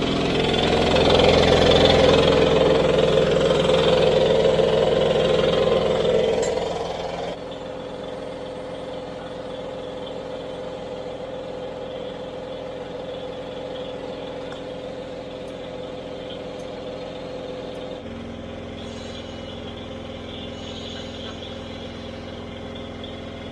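A small motor running steadily with an even, unchanging pitch. It is louder for about the first seven seconds, then drops abruptly to a lower level.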